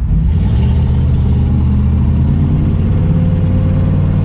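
A vehicle's engine running steadily while driving, its low hum rising slowly in pitch.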